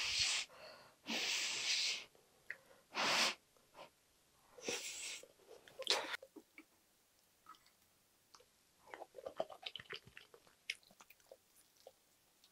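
Close-miked chewing of a mouthful of fried rice, with several loud breaths through the nose in the first five seconds. After that come soft, scattered mouth clicks and a wooden spoon scraping rice in the pan.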